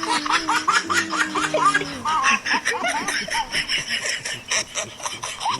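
People laughing: a rapid run of short chuckles and snickers.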